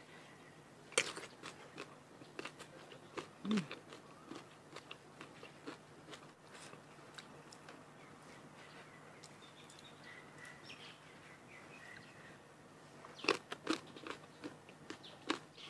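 Crisp bites and chewing of sour green mango close to the microphone: crunches about a second in and again a few seconds later, then a quiet stretch of chewing, and a quick run of crunchy bites near the end.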